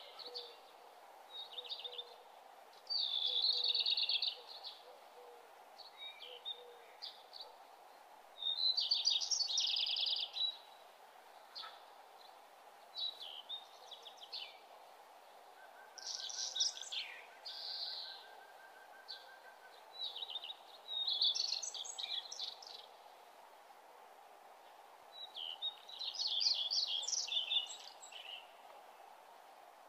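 Birds singing: high, trilled chirping phrases a second or two long, repeated every few seconds over a faint steady hiss.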